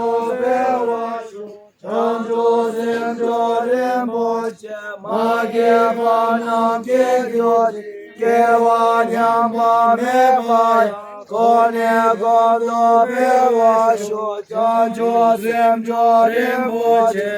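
Voices chanting in unison in long held phrases on a steady pitch, with short breaks between phrases.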